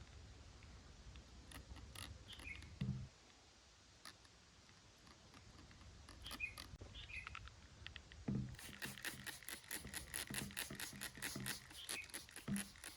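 Newborn puppy giving a few faint high squeaks, then a long run of rapid soft clicking and patter with low thuds starting about eight seconds in.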